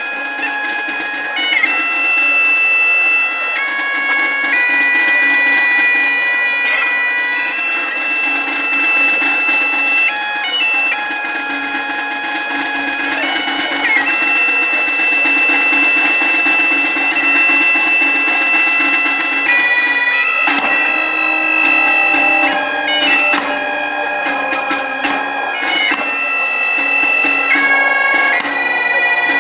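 Bagpipes playing a tune over a steady drone, the melody moving between held notes.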